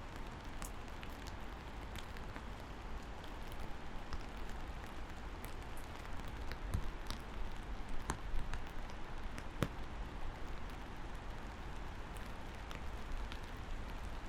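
Steady rain falling, with scattered louder individual drops ticking through the hiss and a steady low rumble beneath.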